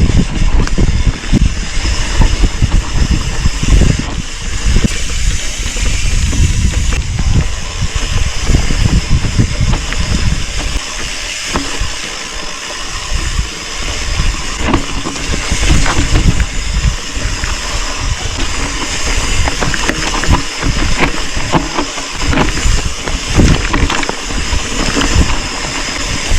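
Mountain bike riding fast down a rough trail: wind buffeting the helmet or bike-mounted action camera's microphone over the rush of tyres on dirt, with frequent knocks and rattles from the bike over bumps.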